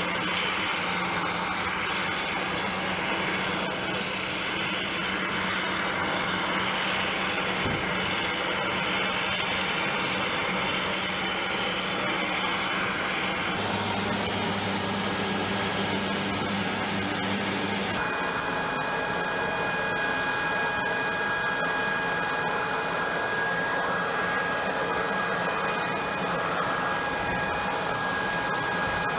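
Steady aircraft turbine noise, a continuous rush with a high whine. The sound changes abruptly twice, about 13 and 18 seconds in, and after the second change steadier whining tones come through.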